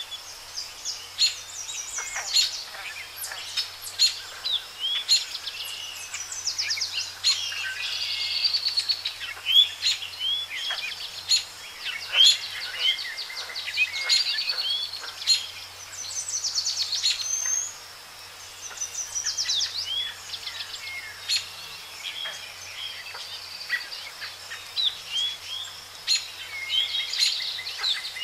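Several songbirds chirping and singing together: fast trills and short sweeping calls overlap one another.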